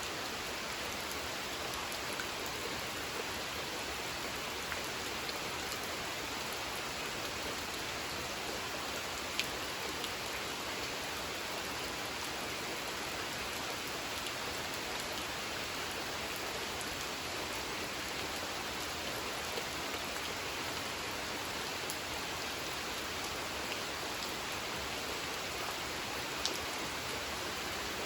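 Steady rain falling on a pond: an even hiss of rain with a few sharper single drops ticking out of it, one near the middle and one near the end.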